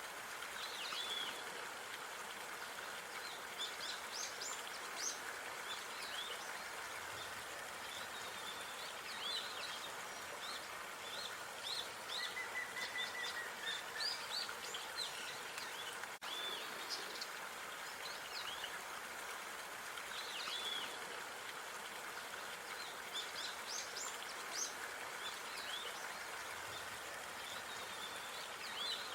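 Park ambience: small birds chirping and calling repeatedly over a steady background hiss.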